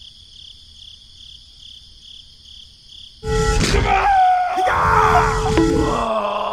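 Faint, evenly pulsing chirping like crickets, then about three seconds in a loud stretch of cartoon-style vocal sound effects with sliding pitch over a low rumble.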